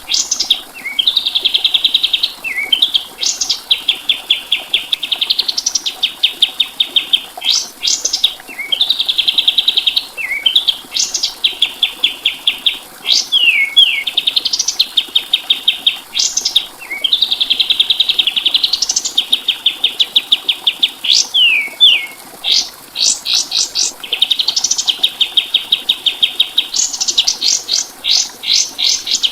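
Kapas tembak songbird singing a repeated song: fast, even trills alternating with sharp rising whistles, each phrase lasting a few seconds and following on with hardly a pause.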